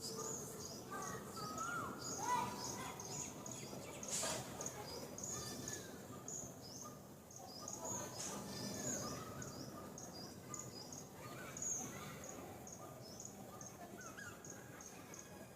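Birds calling: rapid, high-pitched chirps repeated all through, with a few lower whistled notes that slide in pitch now and then.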